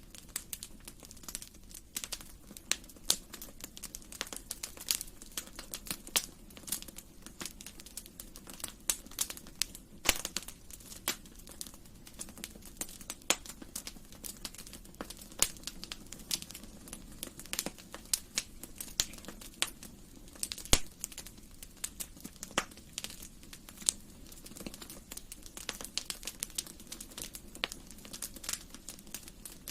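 Wood fire crackling in a fireplace: a dense, irregular stream of sharp snaps and pops over a faint steady hiss, with an occasional louder pop.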